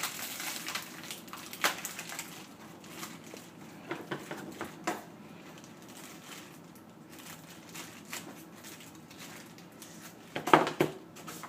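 Small toys and packaging being handled on a table: scattered rustles and light clicks, with a louder knock about ten and a half seconds in.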